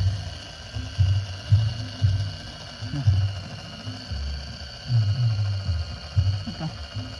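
Remote-controlled toy tractor's small motor and gears running with a steady high whine, under irregular low thumps about twice a second.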